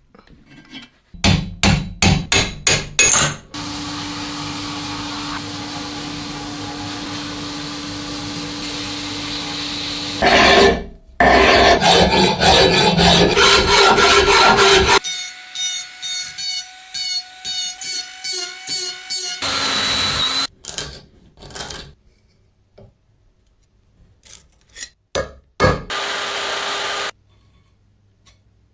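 Metalworking restoration sounds in quick succession: a run of hammer strikes, a tool running steadily, loud rasping and scraping, then scattered knocks.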